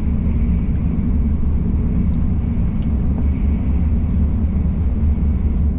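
Cabin noise inside a moving Shinkansen bullet train: a steady low rumble from the running train.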